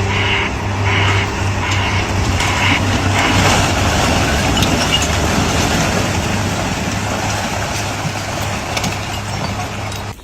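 A heavy vehicle or machine engine running steadily with a dense mechanical rumble. Over the first few seconds a repeated beep sounds about twice a second.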